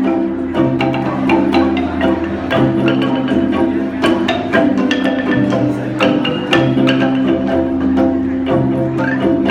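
Kolintang ensemble, the wooden mallet xylophones of North Sulawesi, playing a melody with quick mallet strikes over held notes and a bass line that moves about once a second.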